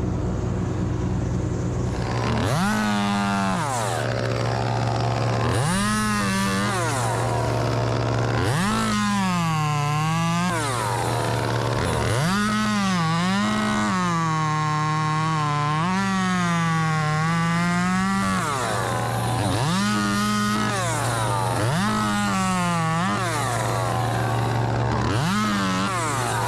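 Chainsaw revving up in seven short bursts as it cuts branches, the pitch sagging under load in each cut; the longest cut runs about six seconds in the middle. A bucket truck's engine drones steadily underneath.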